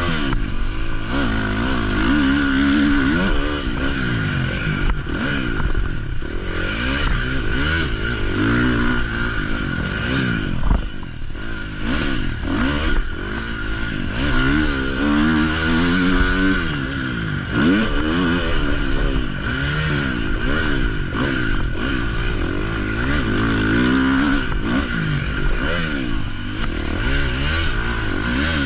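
Motocross dirt bike engine being ridden hard. It revs up and drops off again and again, one sweep every second or two, as the throttle is worked.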